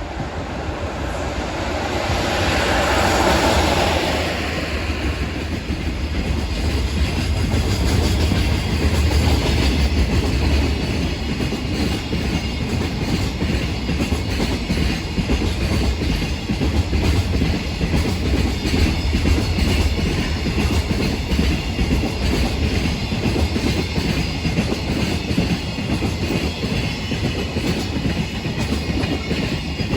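EF66 electric locomotive hauling an express freight train past at speed, loudest about two to four seconds in. A long string of freight wagons follows, rumbling by with a steady clickety-clack of wheels over the rail joints.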